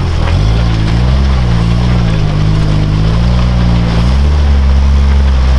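Off-road truck engine working hard through deep water, the revs dipping at the start, wavering, then rising and holding about four seconds in, with water splashing under it.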